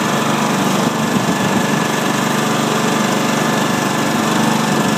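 Riding lawn tractor's 21 hp Kohler engine running steadily, a continuous even engine drone.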